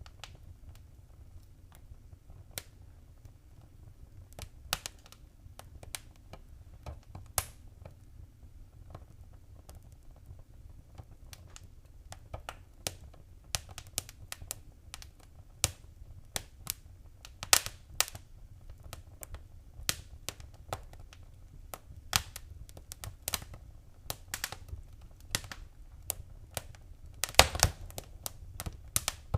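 Wood fire in a fireplace crackling: irregular sharp pops and snaps over a low steady rumble, with a quick cluster of pops near the end.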